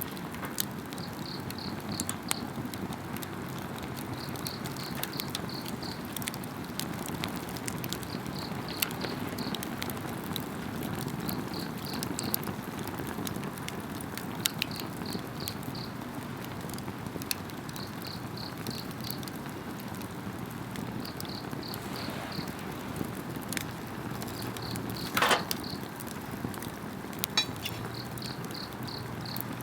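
Wood fire crackling with scattered sharp pops, one louder crack near the end, over a steady low rush of flame. Insects chirp in short rapid pulse trains that repeat every second or two.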